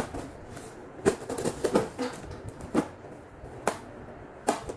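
A handful of sharp knocks and taps at uneven intervals, about six in all, like objects being handled and set down.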